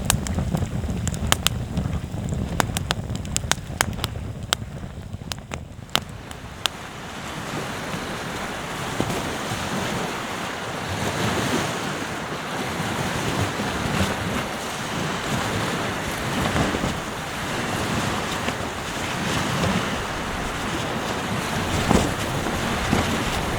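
Sharp crackles and pops of a wood campfire, with wind buffeting the microphone, for about the first six seconds. Then steady ocean surf washing in rolling swells.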